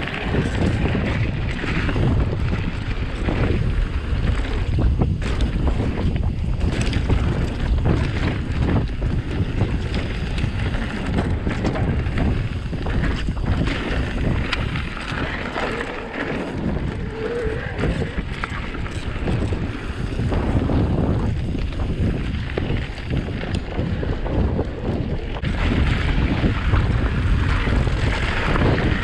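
Wind buffeting the microphone of a camera riding on a moving electric mountain bike, with the tyres rolling and rattling over a rough trail. Short knocks and clatters are scattered through a steady rush.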